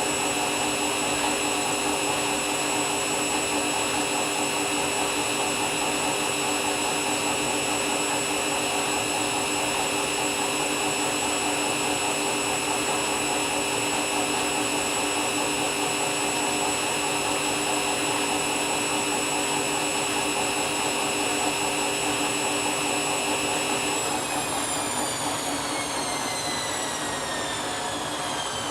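Candy washing machine running an empty bleaching cycle, its motor and drum turning at a steady high speed with a steady whine. In the last few seconds the machine winds down and the whine falls in pitch.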